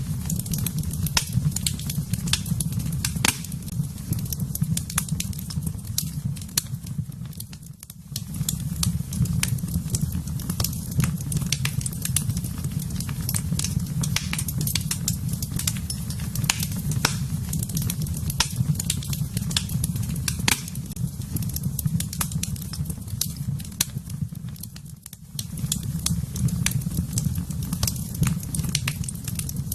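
Fire in a fireplace crackling steadily, with frequent sharp pops over a low rumble of the flames. The rumble briefly drops away twice, about eight seconds in and near the end.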